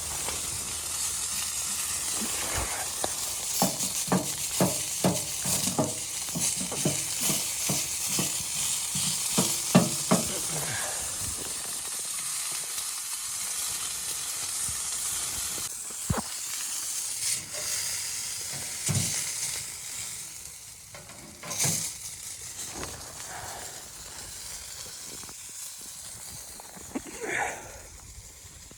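A steady hiss, with a run of evenly spaced strokes at about two a second for several seconds, then a few scattered knocks.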